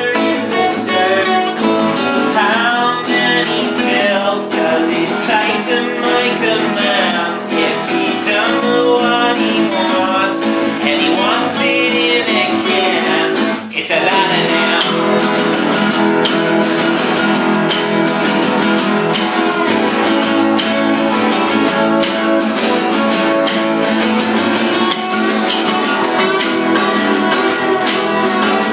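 Live acoustic band music: strummed acoustic guitar with singing through roughly the first half, then a short break about 14 seconds in, after which the guitar carries on with hand percussion ticking in a steady beat.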